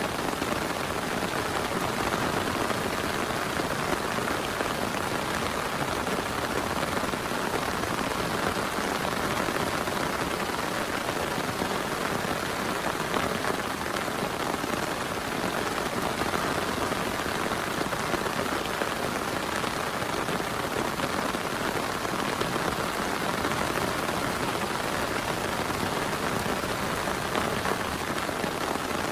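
Heavy rain falling steadily, a dense even wash of countless drops with no let-up.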